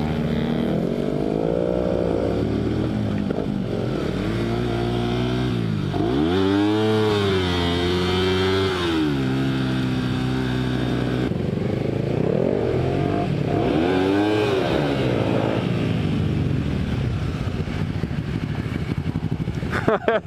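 Motorcycle engine revving up and dropping back several times, its pitch swinging high and low, with the biggest rises about two, seven and fourteen seconds in. A brief sharp knock comes right at the end.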